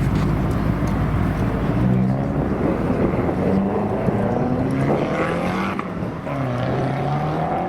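Car engines accelerating away one after another, revving with the pitch climbing and dropping several times as they pull off and change gear.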